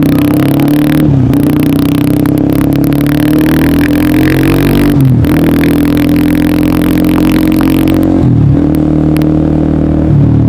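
Honda CBR150R's single-cylinder engine through an aftermarket DST exhaust, accelerating through the gears on the move: the pitch climbs steadily and drops briefly at each upshift, about a second in, around five seconds, near eight seconds and near the end.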